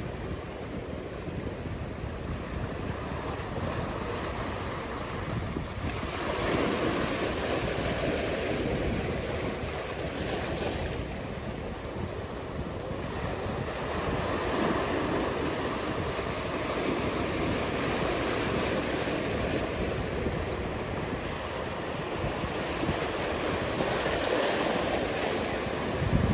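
Ocean surf: waves breaking and washing in, the rush of water swelling louder every eight to ten seconds, with some wind.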